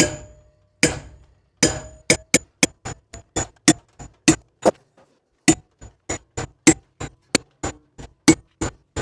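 Hammer blows on a metal pipe being driven through a tight hole, each strike ringing briefly. A few spaced blows come first, then a steady run of about three blows a second with a short pause midway. The pipe is being bent by the hammering.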